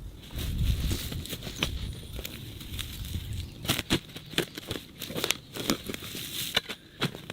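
Ground being cleared of forest-floor debris with a shovel: irregular crunching and tearing with many sharp snaps and scrapes, and a low rumble in the first few seconds.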